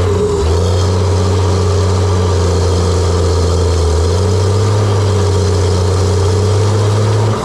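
Diesel engine of a John Deere 700J-II crawler dozer running steadily, its note rising slightly about halfway through.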